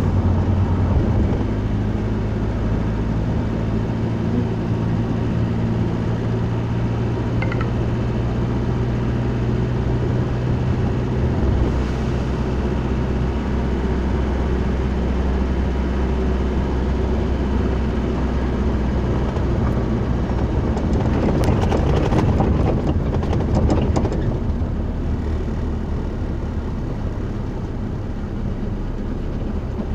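A vehicle engine running steadily, heard from inside the cab while driving. A spell of rattling clicks comes about three-quarters of the way through.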